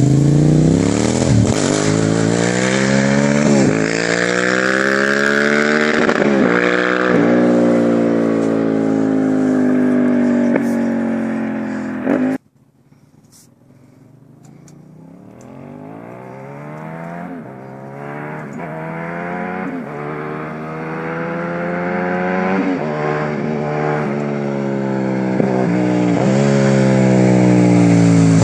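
Cagiva V-twin motorcycle engine revving hard through the gears, its pitch climbing and dropping sharply at each shift. It cuts off suddenly about twelve seconds in. The bike then comes in faint and grows steadily louder as it accelerates up through the gears again.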